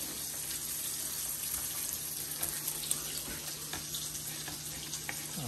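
Steady sizzle of food frying in a pan, with a few light knife taps on a plastic cutting board as lettuce is chopped, the clearest about three seconds in.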